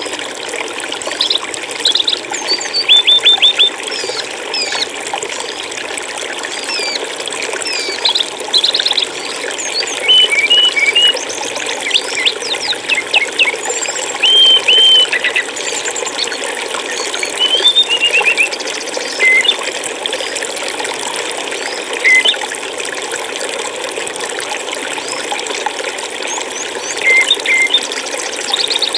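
Running stream water flowing steadily, with small birds chirping, whistling and giving quick trills in short phrases throughout.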